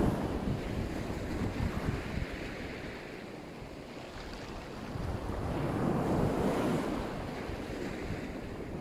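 Black Sea surf washing onto the shore. One wave fades over the first few seconds, and another swells and breaks about six seconds in.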